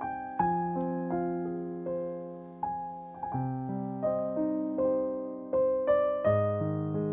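Background piano music: a slow, gentle melody of single notes and chords, each struck and left to ring out.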